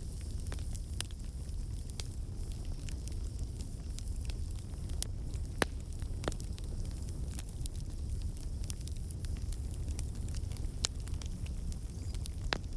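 Fire in a fireplace crackling: frequent small sharp pops scattered over a low steady rumble, with a few louder pops around the middle and near the end.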